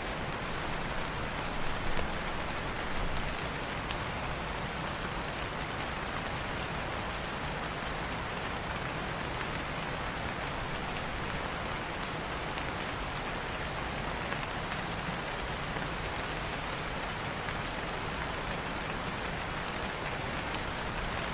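Steady rain falling on foliage, a dense even patter. Short faint high chirps come in about four times, a few seconds apart.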